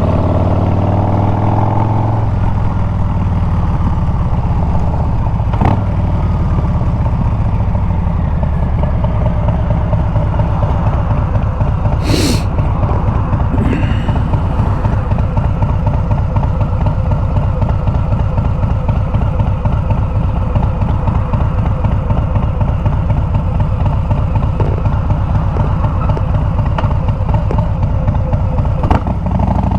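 Harley-Davidson Milwaukee-Eight 114 V-twin running through Bassani straight pipes. The revs drop over the first two seconds, then it runs low and steady. A short hiss comes about twelve seconds in.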